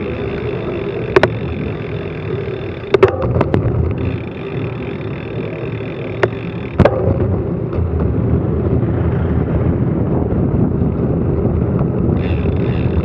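Steady wind noise on an action camera's microphone during a bicycle descent, with a few sharp knocks about one, three and seven seconds in.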